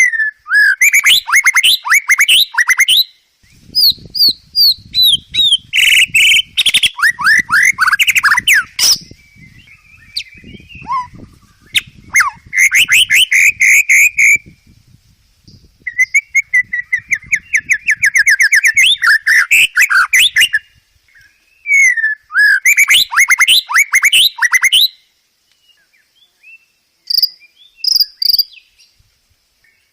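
White-rumped shama (murai batu) singing loud, varied phrases of rapid whistles and trills, in bursts of a few seconds with short pauses between them.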